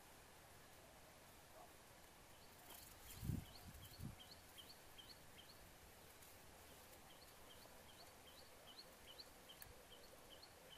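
A small bird gives quick, repeated two-note chirps, about three a second, in two runs of a few seconds each, over faint background hiss. Two low thumps come about three and four seconds in.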